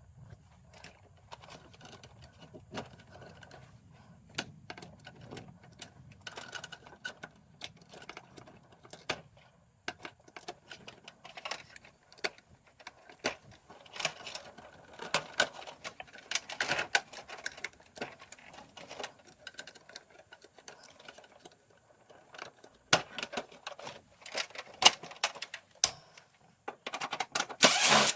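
Irregular clicks, taps and light clatter of hands and tools working on an air conditioner's casing and parts, growing denser and louder near the end.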